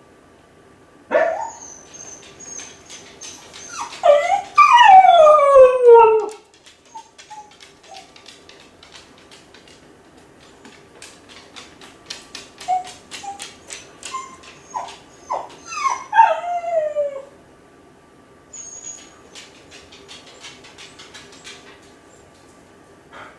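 Kai Ken dog whining and howling while left home alone, a lonely separation cry. A loud howl slides steeply down in pitch about four to six seconds in, short whimpers follow, and another falling whine comes near the middle, with faint clicks between the cries.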